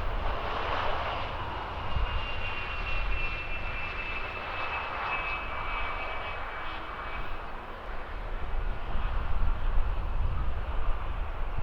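Jet aircraft engines running, a steady rushing noise with a faint high whine that slides slightly lower in pitch from about two to seven seconds in.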